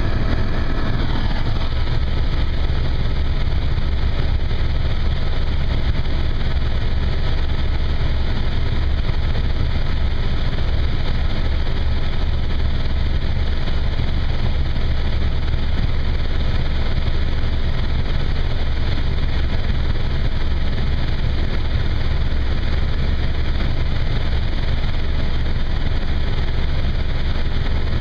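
Helicopter's engine and rotors, heard on board in flight: a loud, steady, low drone. A few faint higher tones fade out about a second in.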